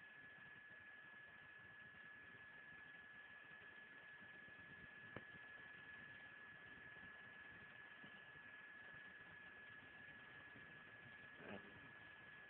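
Near silence: a faint steady hiss with a thin steady high whine, the recording's own noise floor. A single click about five seconds in and a brief soft sound near the end.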